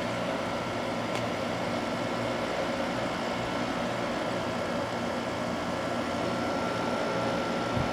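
Vintage Emerson Quiet Kool window air conditioner running steadily. Its fan blows with a low hum and a thin, constant high tone.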